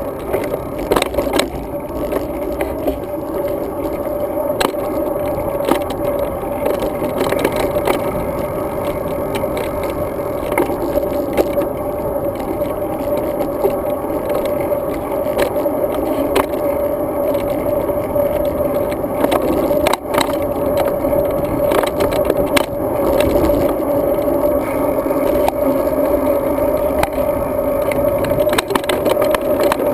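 Road bike riding along, heard through a bike-mounted action camera: a steady rolling rumble from the tyres and wind, with frequent short clicks and rattles as the bike and mount jolt over bumps.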